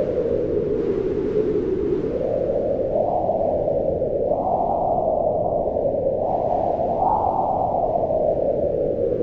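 Howling mountain wind: a steady rushing noise whose pitch slowly rises and falls with the gusts.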